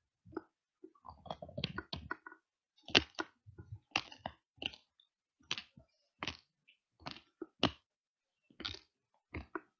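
Biting and chewing a solid handmade milk chocolate pipe with sprinkles, close to a headset microphone: a string of short, sharp crunches and mouth clicks.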